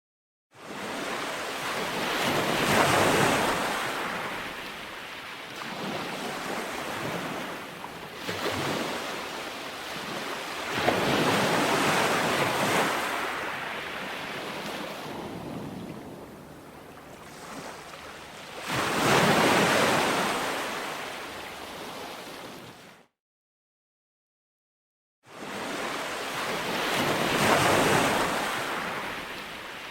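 Ocean waves rolling onto a shore: a surge of surf that swells and ebbs roughly every eight seconds. The sound cuts out to dead silence for about two seconds near the end, then the surf resumes.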